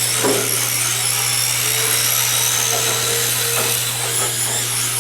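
Electric motors of RC drift cars whining as they drive around the track, the high whine wavering up and down with the throttle over a steady low hum.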